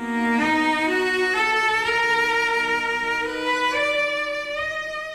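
Background music: a slow bowed-string melody, likely violin, of a few long held notes that change pitch every second or two, growing quieter near the end.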